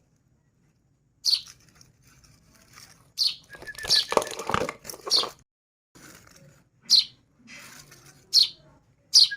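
Hand-fed baby birds' begging calls: about seven short, piercing high chirps, each falling in pitch, spaced a second or two apart, with a stretch of scuffling noise and a brief rapid trill around the middle.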